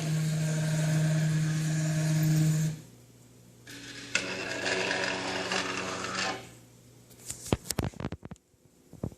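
Small electric motor of a model logistics system whirring with a steady hum. It stops about three seconds in, runs again for a little over two seconds, then falls quiet, and a few sharp clicks follow near the end.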